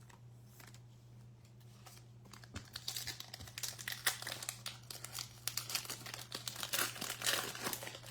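Trading card pack wrapper being torn open and crinkled: a few light clicks, then dense crackling of the wrapper from a little under three seconds in.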